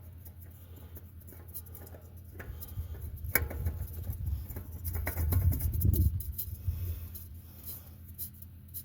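Small clicks and scraping from hands and tools working on the oil-change parts, over a low rumble that swells in the middle and fades again.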